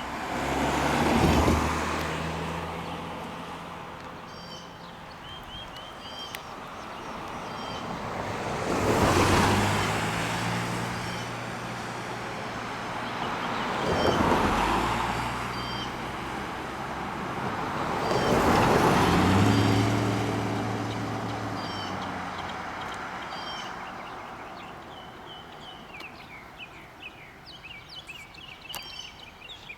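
Road vehicles driving past one after another: four separate pass-bys, about a second in, around nine seconds, fourteen seconds and nineteen seconds in, each swelling up and fading away, with the engine note dropping as each goes by. Birds chirp throughout, more busily near the end.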